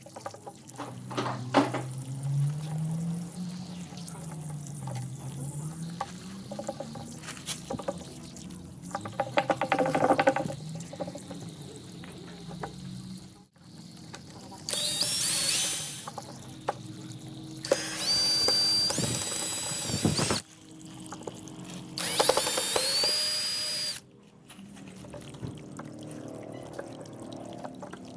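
A power drill running in three bursts of one to two and a half seconds, its motor whine stepping up in pitch within each burst. Light knocks and faint background music fill the time between.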